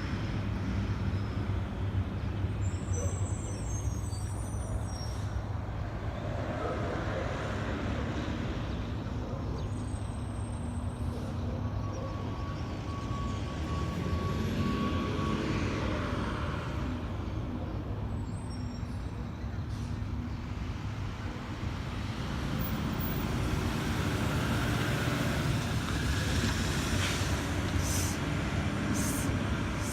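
Mack LEU rear-loader garbage truck's diesel engine running steadily, revving up and down about halfway through, with a few short sharp hisses of air near the end.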